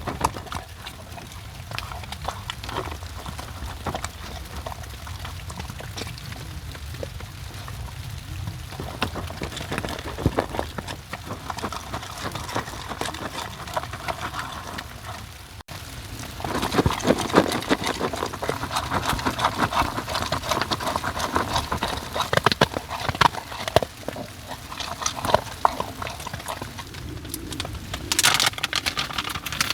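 Rain pattering on a tent, dotted with many small ticks of drops; about halfway through it turns suddenly louder and denser.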